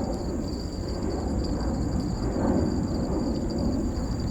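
Rumble of jet aircraft engines heard across the airport, a steady low noise with no clear rise or fall, together with a steady thin high-pitched drone.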